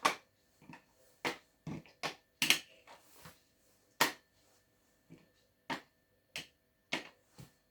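Magnetic letters being taken off and pressed onto a fridge door: about a dozen sharp clicks and clacks at irregular intervals.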